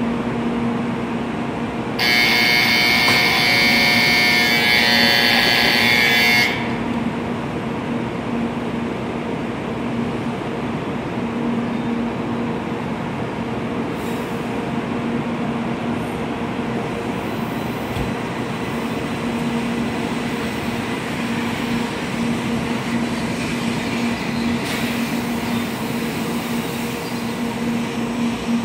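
An electronic platform departure signal rings loudly and steadily for about four seconds and then cuts off. After it, a 700 Series Rail Star shinkansen pulls out along the platform with a steady electric hum and rolling noise.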